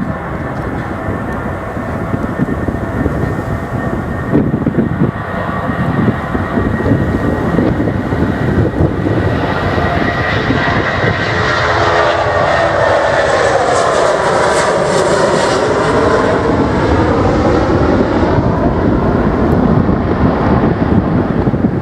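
An airliner's engines build to a peak about two-thirds of the way through as the aircraft passes close by, then begin to fade. Wind buffets the microphone throughout.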